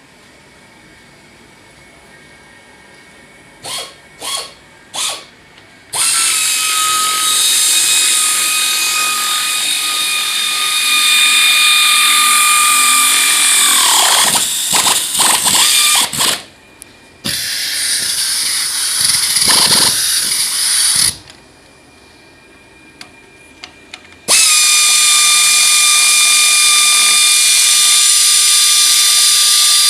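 Handheld electric power drill running, likely driving fasteners. It gives three short blips, then a long steady high whine that winds down in pitch when released. Several quick bursts follow, then a pause, and another long steady run.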